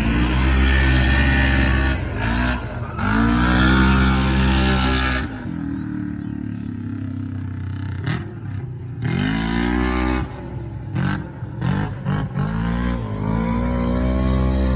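Racing vehicle engine revving in repeated surges, its pitch climbing and dropping several times, with a steadier, quieter stretch in the middle.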